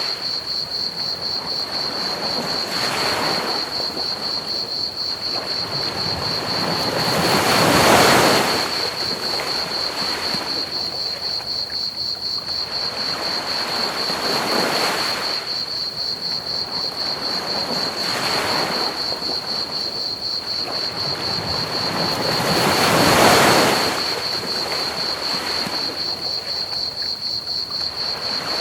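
Ocean waves washing onto a beach in slow swells every few seconds, two larger breakers standing out, about a third of the way in and near the end. Under them runs a steady trill of crickets and a constant pink-noise hiss.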